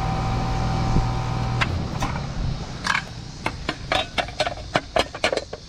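Outdoor air-conditioner condensing unit's compressor and condenser fan running with a steady hum, then cutting off abruptly about a second and a half in as the power disconnect is pulled. A run of sharp clicks and knocks follows.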